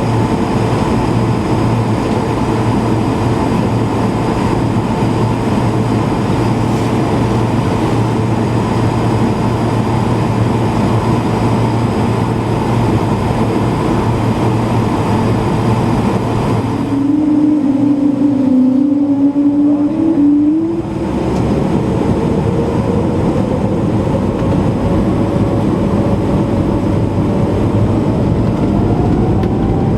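Airbus A220-300's Pratt & Whitney PW1500G geared turbofan engines heard from inside the cabin, a loud, steady rushing drone. About 17 seconds in the rush drops away for a few seconds while a low hum stands out, and then a whine rises slowly in pitch.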